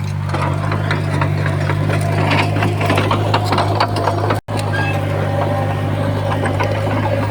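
Komatsu D51PX bulldozer's diesel engine running at a steady pitch, with frequent clanks and rattles from the machine working. The sound cuts out for an instant a little past halfway.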